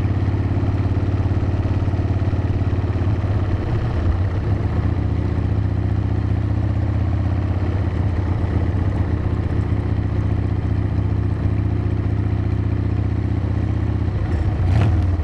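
Harley-Davidson V-twin motorcycle engine running at a steady cruise, its note holding even throughout, with one short knock near the end.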